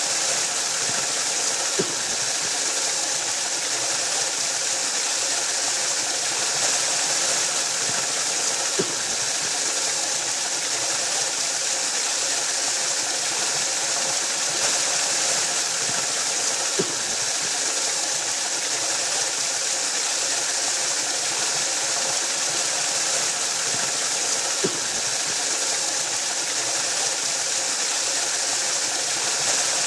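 Waterfall: a steady rush of falling water with a bright hiss. A faint short knock comes about every eight seconds.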